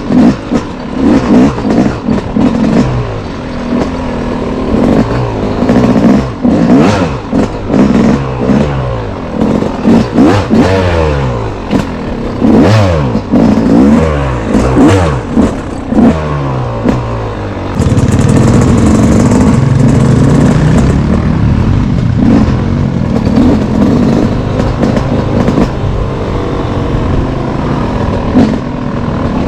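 A single-cylinder off-road engine revving hard and easing off again and again, its pitch climbing and dropping as the throttle and gears change, with frequent knocks and rattles from the rough trail. About two-thirds of the way in, it settles into a steadier, more even note.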